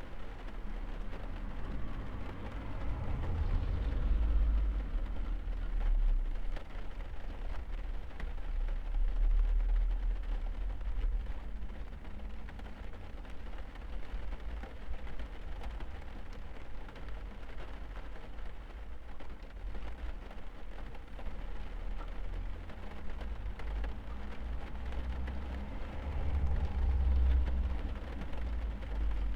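Steady rain drumming on a car's roof, heard from inside the car, with a deep rumble that swells and fades several times.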